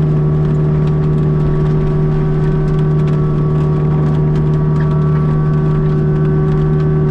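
Kubota U55-4 mini excavator running at steady high revs with its Prinoth mulching head spinning, a constant drone with a steady whine above it.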